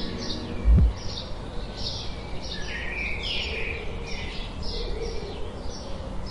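Birds chirping in a busy run of short calls, with a single deep thump just under a second in.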